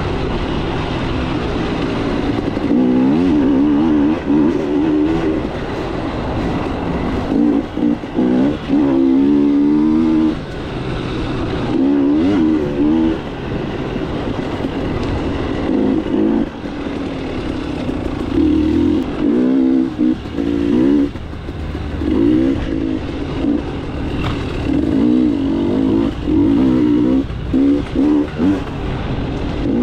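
KTM 300 two-stroke dirt bike engine under load, its pitch rising and falling as the throttle is opened and closed every second or two, with brief drops where the throttle is shut off.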